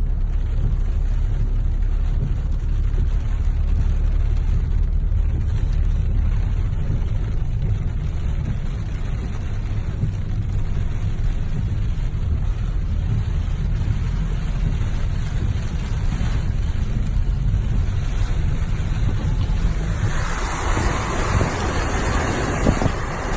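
Waterfall rushing as a steady, deep rumble of falling water, with a brighter splashing hiss joining near the end.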